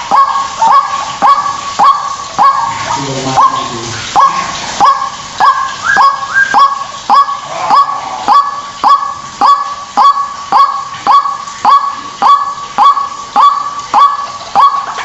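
White-breasted waterhen calling a fast, steady run of repeated 'ruak' notes, about two a second, each a quick upward swoop onto a short held note.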